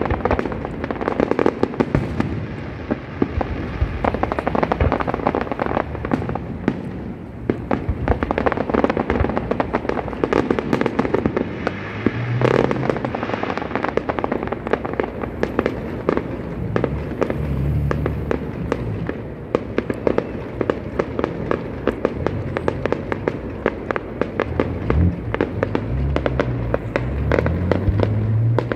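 Fireworks display with aerial shells bursting overhead: a dense, unbroken run of rapid bangs and pops.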